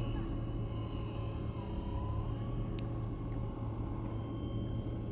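Steady low rumble of a running vehicle, with a faint steady whine above it and a single sharp click about three seconds in.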